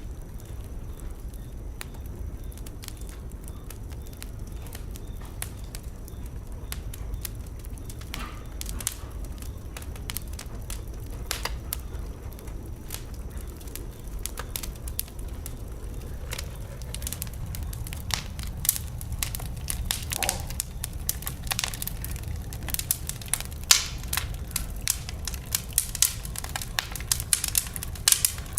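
Wood fire burning in a fireplace: a steady low rumble of flame with irregular crackles and pops from the burning logs, sparse at first and growing denser and louder in the second half, with a brief faint hiss now and then.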